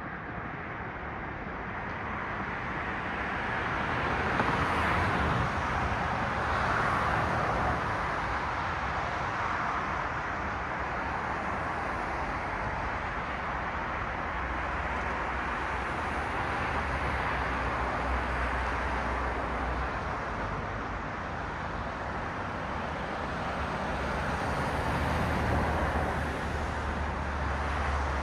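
Cars passing on a city street, tyre and engine noise swelling as vehicles go by, with a low engine rumble growing louder in the second half.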